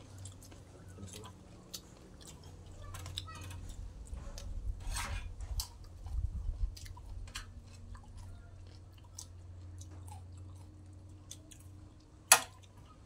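Close-up eating sounds: chewing, with many small clicks throughout over a low steady hum, and one sharp, loud click near the end.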